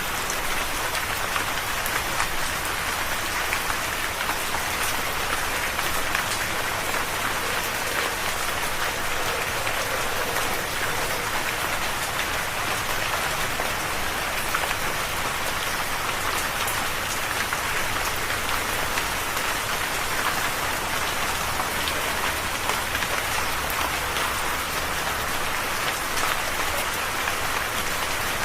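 Steady rain falling, with many fine individual drops pattering on a surface.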